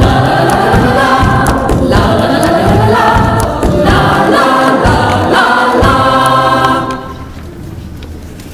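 Choral music: a choir of voices singing together, dropping much quieter about seven seconds in.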